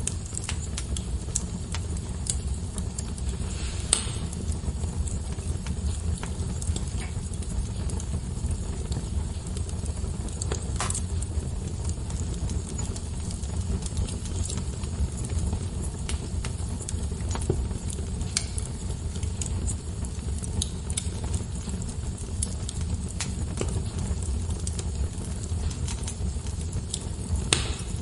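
Wood fire burning in a fireplace, with a steady low rumble and scattered crackles, and a few louder pops about 4 s, 11 s and near the end.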